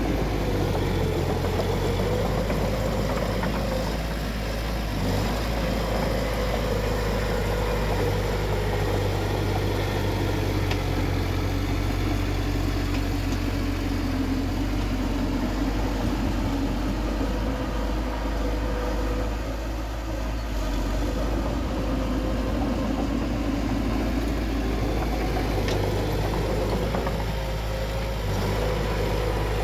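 Bulldozer's diesel engine running steadily under varying load, its pitch sagging and rising slightly now and then.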